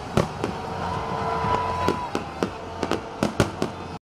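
Aerial fireworks going off: a rapid, irregular string of sharp bangs and crackles. A whistling tone rises and holds about a second in. The sound cuts off suddenly near the end.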